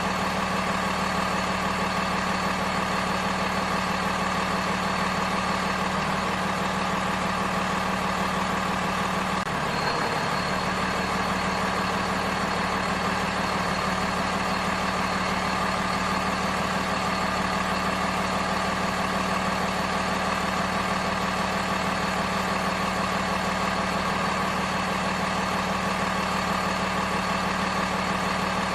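A small motor or engine running at a steady speed, giving an even hum with a thin high whine over it, which dips and shifts briefly about ten seconds in.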